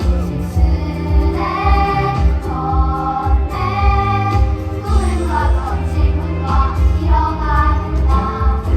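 A song with group singing over an instrumental backing with a steady bass beat.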